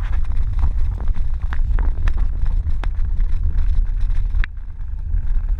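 Wind buffeting the microphone of a camera carried on a moving bicycle: a loud, steady low rumble with scattered short clicks and rattles.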